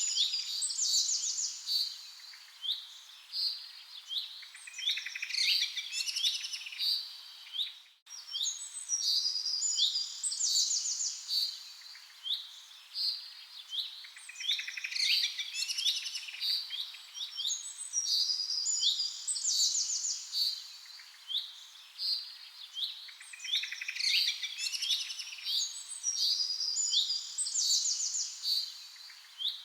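Songbirds chirping and singing, many short, high chirps and trills overlapping one another, with a momentary break in the sound about eight seconds in.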